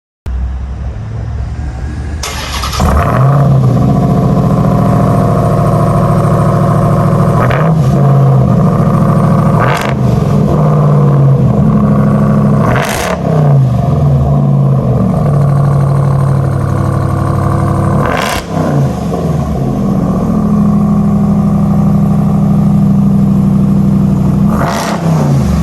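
Ram 1500 TRX's supercharged 6.2-litre V8 running loud. It starts near idle, and about three seconds in the revs come up and are held high. Several quick throttle blips and drops give sharp dips and rises in pitch.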